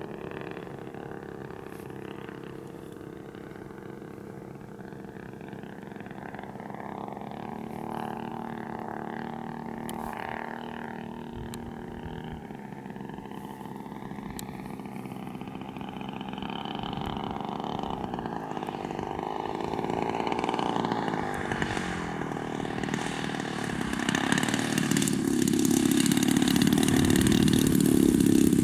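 Giant-scale RC warbird's gasoline engine running in flight. Its pitch rises and falls as the plane makes passes, and it grows much louder near the end as it comes close. The pilot says it is still running a little rich ('fat') on the high end.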